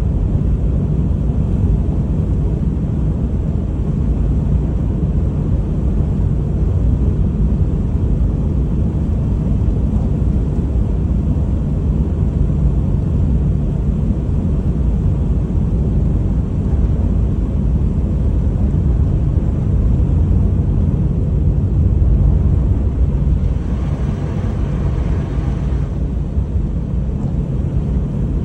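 Honda HR-V driving on a snowy road: a steady low rumble of tyre and road noise with a faint engine hum. A brief hiss swells near the end.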